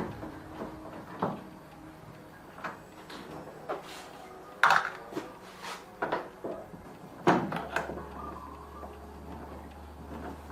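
Scattered knocks and clicks of parts and tools being handled, with two louder knocks about four and a half and seven seconds in. A low steady hum starts with the second of them.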